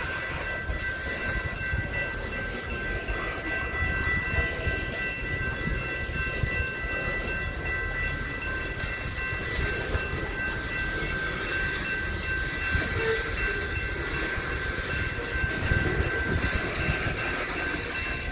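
A train rolling past: a continuous low rumble with wheels clattering over the rails, and several steady high tones held throughout.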